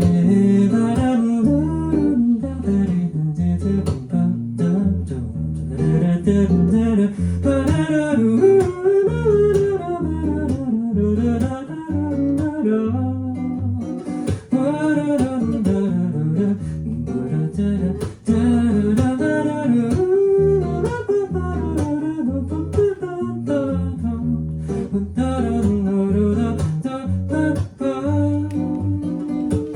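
Live acoustic guitar strumming under a wordless sung melody that wavers and slides in pitch.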